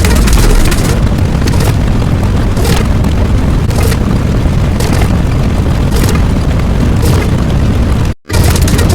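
A loud, continuous deep rumbling boom, like a sustained explosion sound effect, with sharper crackling bursts about once a second. It cuts out abruptly for a split second near the end and then resumes.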